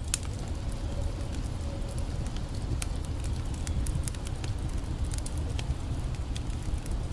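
Campfire crackling, with scattered sharp pops and snaps over the steady low rush of the creek.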